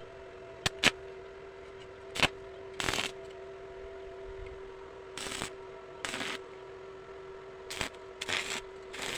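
A steady mechanical hum with a sharp click or knock every second or so, some coming in short clattering clusters.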